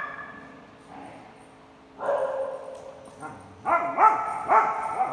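Dog barking: one drawn-out bark about two seconds in, then a quick run of four short, loud barks in the last second and a half.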